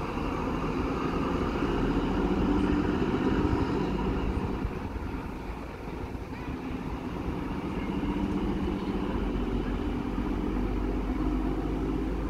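Electric train running: a steady mechanical hum over a low rumble, swelling and easing off twice.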